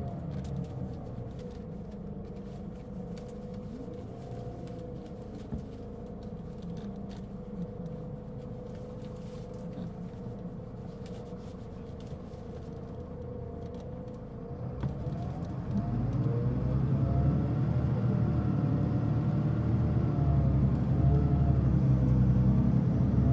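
Mitsubishi Fuso Aerostar city bus (LKG-MP37FK) diesel engine running at low speed with a steady whine. About fifteen seconds in it gets louder as the bus pulls away, its engine note rising, dipping and rising again. This bus is known for giving off a strong abnormal noise while running.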